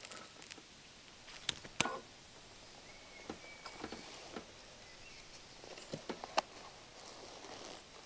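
Scattered sharp clicks and knocks over a faint steady hiss, with two louder ones about a second and a half in and another near the six-second mark.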